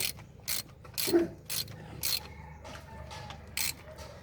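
Ratchet wrench being worked in short repeated strokes, each a quick burst of clicks, about two a second, with a pause in the middle.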